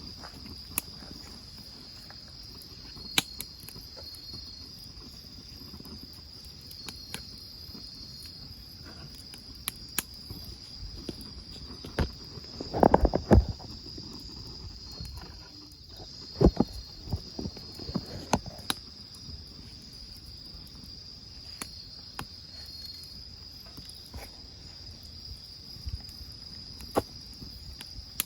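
Crickets chirring steadily and high, with short pulsed chirps. Over them a wood fire gives irregular sharp pops and crackles, the loudest run of them about thirteen seconds in.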